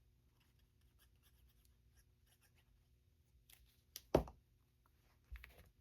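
Paper and cardstock being handled and slid on a craft table, with faint scratchy rustling throughout. A sharp knock about four seconds in and a softer one near the end.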